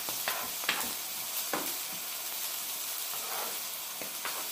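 Ribeye steak and diced onions sizzling in oil on a griddle, a steady hiss, with a few short scrapes and taps of a spatula on the griddle surface as the onions are stirred.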